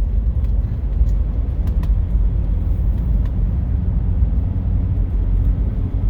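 A vehicle being driven: steady low engine and road rumble.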